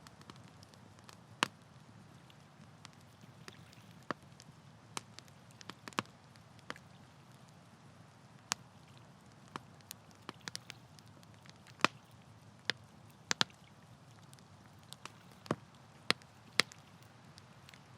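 Wood campfire crackling: irregular sharp pops and snaps, a few of them much louder, over a steady low background rush.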